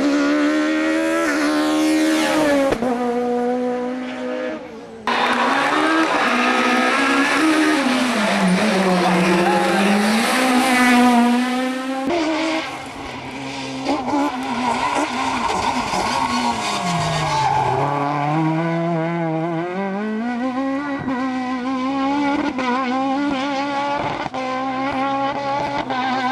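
Kit Car rally cars driven hard, engines revving high and swinging up and down in pitch through gear changes and lifts. Several separate passages follow one another, changing abruptly about 5 and 12 seconds in.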